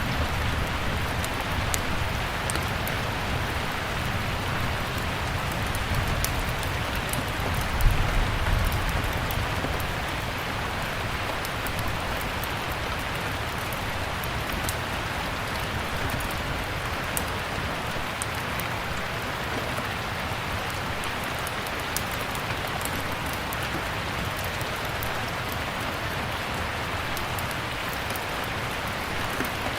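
Steady rain with the sharp crackles and pops of a wood fire scattered through it. A low rumble, like distant thunder, fades out about a third of the way in.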